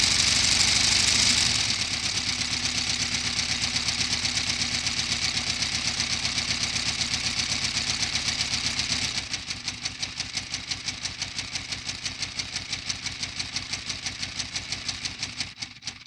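Lego inline-12 two-stroke diesel engine model running, its plastic mechanism clattering in a fast, even rhythm. It drops in level and slows about a second and a half in and again about nine seconds in, then falters near the end as it winds down.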